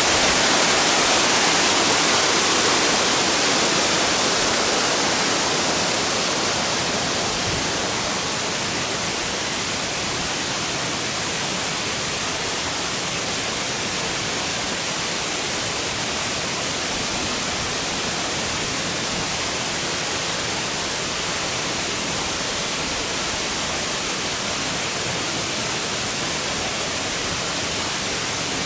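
Steady rush of a waterfall, a little louder for the first few seconds, then settling to an even level.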